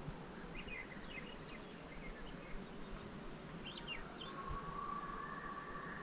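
Small birds chirping, then a common loon's wail begins near the end: a long clear note that steps up to a higher held note.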